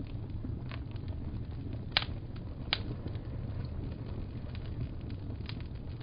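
Wood fire crackling in a fireplace over a steady low rumble, with scattered small snaps and two sharper pops about two and nearly three seconds in.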